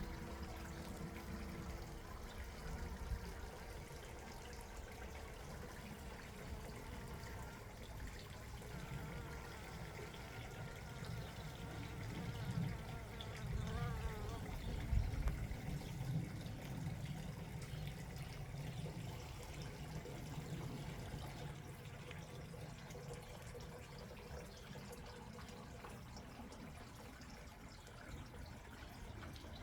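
Water trickling steadily, with low rumbles now and then, the strongest about halfway through.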